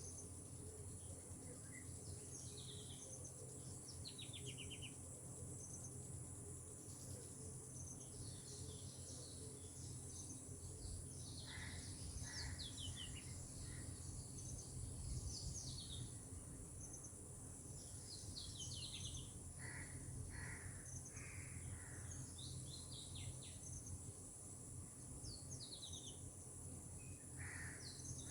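Birds chirping and giving quick falling trills, many short calls scattered throughout, over a steady high-pitched insect drone and a low steady background rumble.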